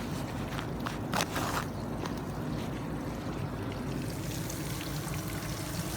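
Cornmeal-coated whiting frying in hot grease on a grill: a steady sizzling hiss, with a few sharp clicks about a second in.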